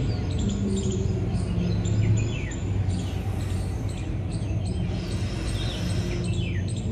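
Birds chirping and calling, with short high chirps and quick downward-sliding calls scattered throughout, over a steady low hum.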